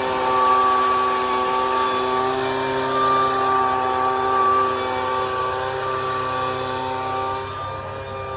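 Gasoline-powered leaf blower running steadily at high speed while blowing dust off a round baler, its engine pitch shifting slightly near the end.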